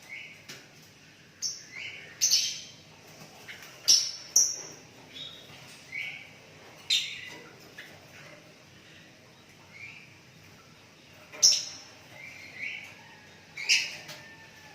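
Sooty-headed bulbul (kutilang) calling: short rising whistles mixed with sharper, louder chirps, coming irregularly about once a second.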